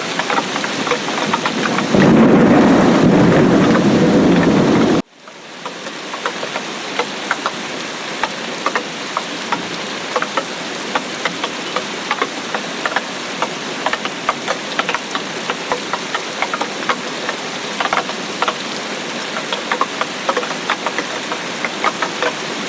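Steady rain with many distinct drops pattering close by. About two seconds in, a loud low rumble of thunder breaks in and cuts off abruptly three seconds later, as at an edit.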